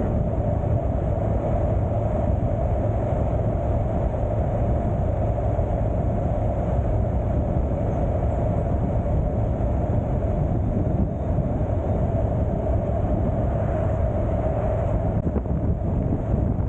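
Motorcycle on the move at a steady pace: a constant engine and road drone mixed with wind rumbling on the microphone.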